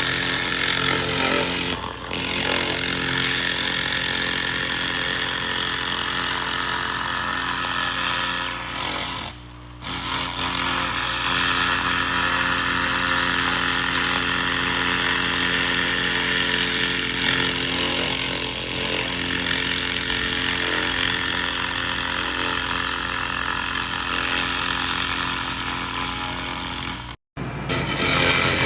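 Laser rust remover (SFX 2000) cleaning rust off metal: a steady hiss over a constant machine hum, breaking off briefly about nine seconds in and again, sharply, near the end.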